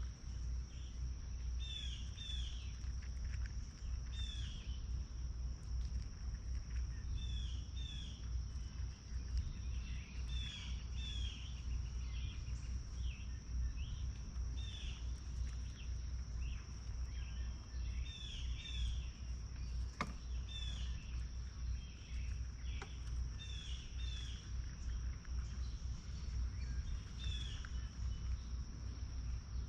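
Small songbirds chirping over and over in short repeated calls, over a steady high-pitched insect drone and a low rumble, with one sharp click about two-thirds of the way through.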